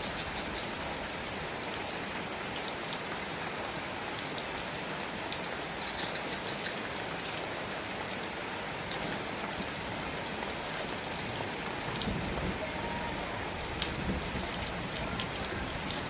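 Steady rain falling, with scattered sharp drops striking close by. About twelve seconds in, a low rumble joins under the rain.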